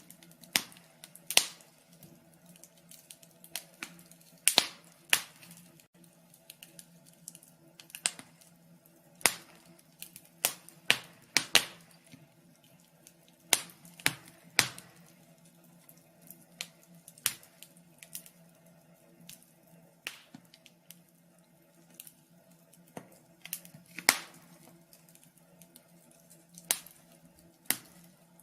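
Wood fire crackling: irregular sharp pops and snaps, a few a second, some louder than others, over a faint steady hum.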